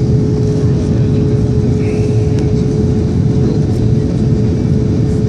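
Airbus A310 cabin noise on the landing approach: the steady rumble of the jet engines and airflow, with a constant steady hum running through it.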